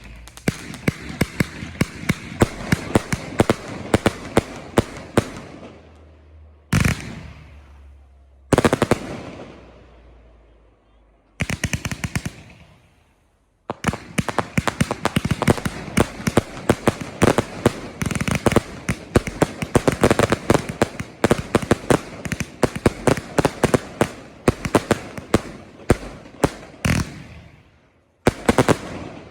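Fireworks display: rapid barrages of bangs and crackles, broken by a few single loud booms that echo away, near 7 and 9 seconds in, and short lulls between salvos.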